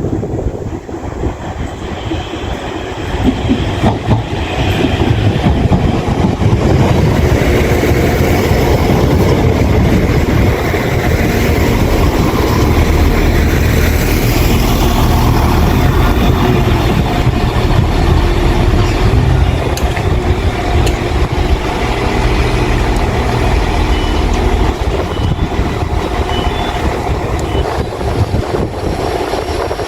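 Diesel multiple unit train running close by, a steady heavy rumble that builds over the first several seconds and then holds.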